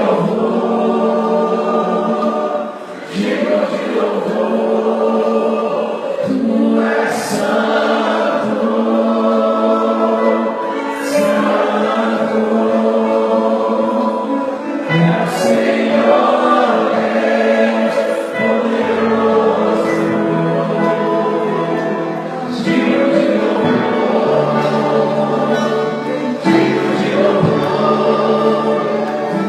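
Gospel worship music: a group of voices singing together over instrumental accompaniment with a moving bass line, with a few sharp crashes along the way.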